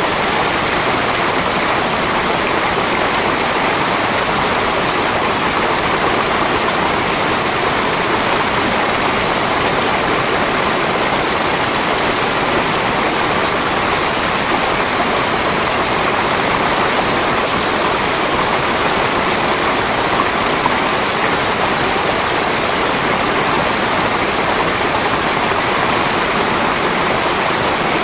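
Rushing water, a steady, unbroken flow with no separate splashes or drops.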